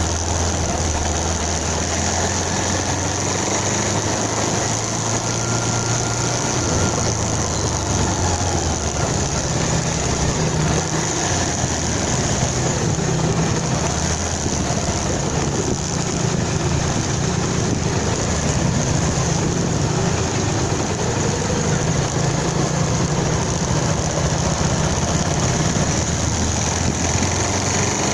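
Motorcycle engine running while riding, with a steady hiss. The engine note steps up about eight seconds in and then rises and falls with the throttle.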